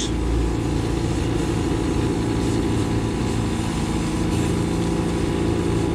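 Concrete pump truck's diesel engine running at a steady speed.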